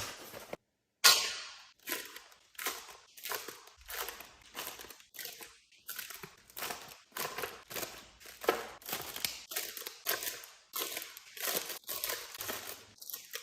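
Groceries and containers being handled and set into a fridge: a steady run of sharp clacks and knocks about two a second, with packaging crinkling between them, the loudest clack about a second in.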